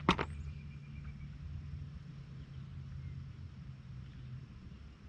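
A single sharp click, then a steady low hum that fades out near the end, with a short high chirp just after the click.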